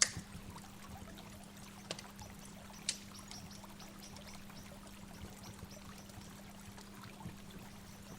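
Steady rush of a waterfall, with a few sharp splashes standing out, the loudest right at the start and another about three seconds in, over a steady low hum.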